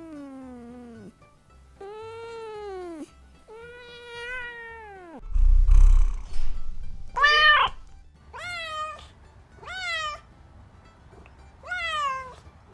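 Domestic tabby cat meowing seven times. The first three meows are long and lower; the last four are shorter and higher. A low thump comes about five seconds in.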